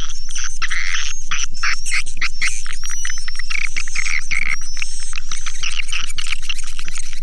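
Swiftlet calls: a dense, unbroken twittering of rapid clicks and short high chirps from many birds, steady in loudness, as on a swiftlet-house call track.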